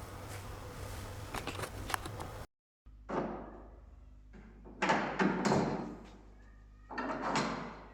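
Folding table being handled and slid: three short sliding scrapes about two seconds apart, after a faint stretch with a few light clicks and a brief cut to silence.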